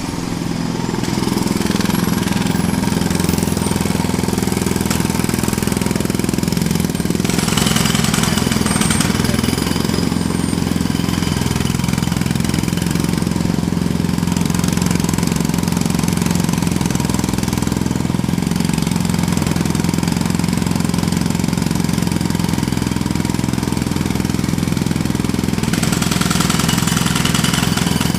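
Jackhammer hammering continuously, starting abruptly, its rapid blows blending into a steady rattle, with brighter, harsher stretches about seven seconds in and again near the end.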